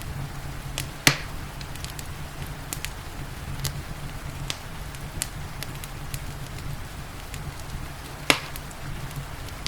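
Wood fire crackling in a fireplace: scattered small pops and snaps, with two loud sharp pops, one about a second in and one near the end, over a steady low rumble and the hiss of rain.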